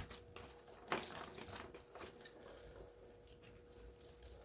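Faint crinkling, tearing and small clicks of plastic insulation being cut and pulled off copper wire, with a sharper click about a second in.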